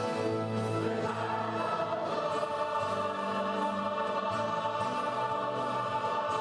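Choir singing held notes with instrumental accompaniment.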